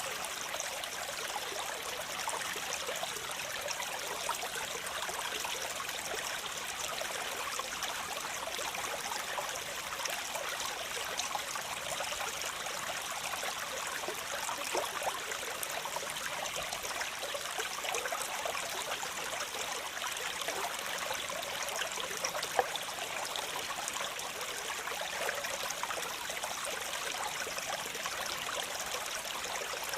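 Waterfall: a steady, even rush of falling water, full of fine splashes and with little deep rumble.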